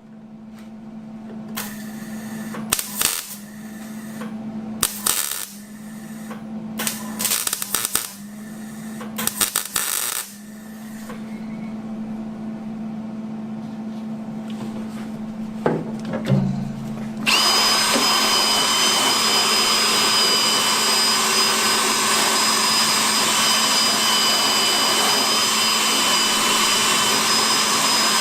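Short crackling bursts of arc welding on a car's sheet-steel firewall, one every second or two over a steady electrical hum. About two-thirds of the way in, a power grinder starts abruptly and keeps running with a steady high whine.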